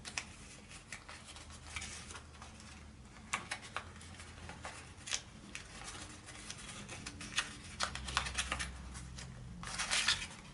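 Paper rustling and crackling in scattered small clicks as a folded dollar bill is unfolded and pulled out of its paper template, with a denser burst of rustling near the end.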